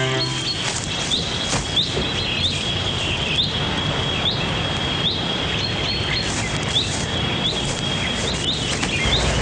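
Woodland ambience: a bird repeats a short rising chirp roughly once a second over a steady high thin tone and a background hiss.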